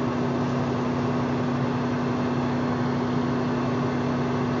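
Steady drone of an 18-wheeler tanker truck's engine and road noise heard inside the cab, with one strong constant hum, as the loaded truck runs down a long grade.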